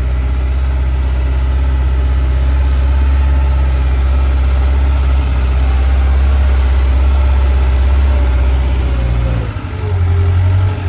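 Skid steer engine running steadily under way, with a short dip and change in its pitch about nine and a half seconds in.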